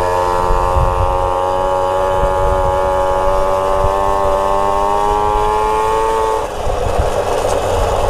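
Moped engine held at steady, high revs while riding. About six and a half seconds in, the throttle closes and the engine note drops away, leaving wind noise and a low rumble.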